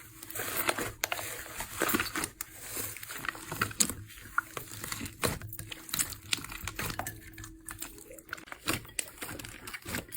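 Slime being squeezed and poked by hand, making a stream of irregular sticky pops and clicks.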